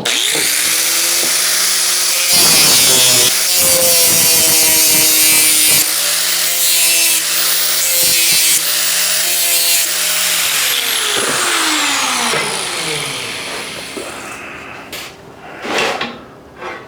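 Angle grinder grinding down a hump on a steel plate: a steady motor whine under a harsh grinding hiss. About two-thirds through it is switched off and winds down in pitch, followed by a couple of short knocks.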